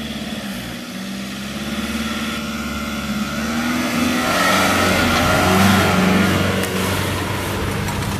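Nissan Patrol 4WD's engine working under load as it climbs a muddy hill, growing louder as it comes close about halfway through.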